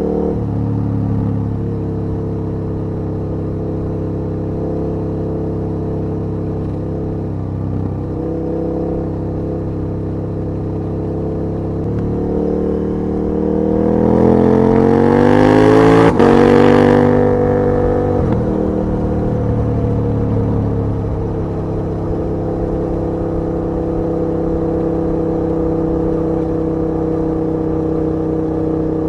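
KTM 1290 Super Duke R's V-twin engine under way, running steadily, then revving up in a rising pitch about halfway through. At the peak comes one sharp tick, and the revs fall back to steady cruising.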